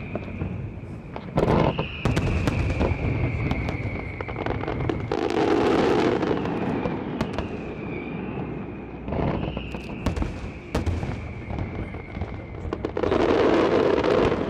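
Fireworks going off: aerial shells bursting with sharp reports and crackling, with two louder, rushing stretches, one about five seconds in and one near the end. A high whistle that falls in pitch sounds over it and repeats every few seconds.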